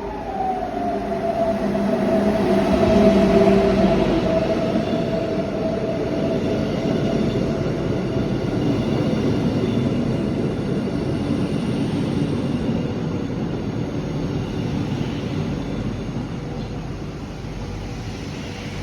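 Electric train passing close by, its rumble peaking a few seconds in and slowly fading away. A motor whine drops in pitch over the first couple of seconds and then holds steady.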